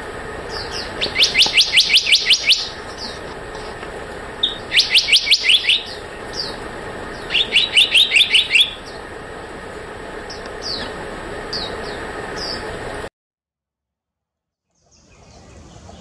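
Black-naped monarch singing: three quick runs of about eight to ten rapidly repeated high notes, with a few short single calls in between, over steady background noise. The sound cuts off suddenly about 13 seconds in, and fainter background sound returns near the end.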